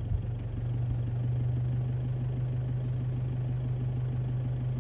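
A vehicle's engine idling steadily with a low, even hum, from the vehicle the giraffes are being watched from; a single short knock sounds right at the start.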